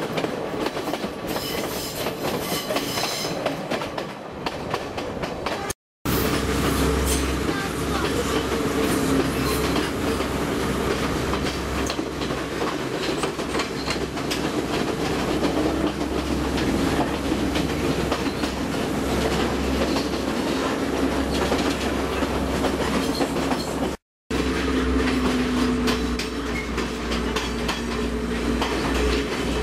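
Passenger train running, heard from inside the carriage: a steady low rumble with the rattle and clatter of the wheels on the rails. The sound drops out for a moment twice, about six seconds in and again some six seconds before the end.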